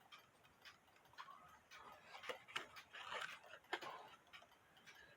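Faint ticking of an old alarm clock's bare movement, out of its case. It keeps running even when held upside down, a sign that the escapement stays in beat in all positions.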